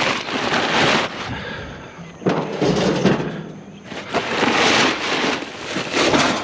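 Rattling and clattering bursts from handling a battered metal barbecue grill, with a sharper knock a couple of seconds in.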